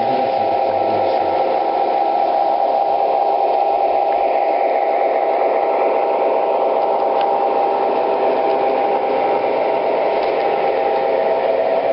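O scale model trains running on the track: a steady mechanical hum with a few held tones over a rushing noise.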